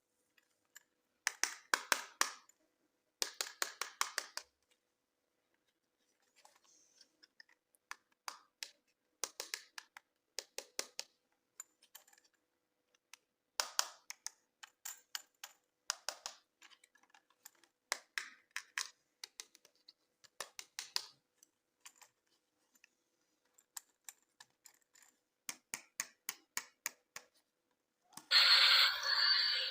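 Plastic toy packaging being handled: quick clicks and taps in short bursts of about a second, with pauses between. Near the end, loud music starts abruptly.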